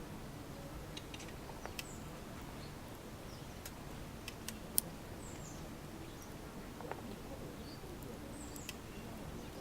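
Wood campfire crackling: sparse sharp pops and ticks over a low steady background, one pop standing out clearly louder a little before the middle.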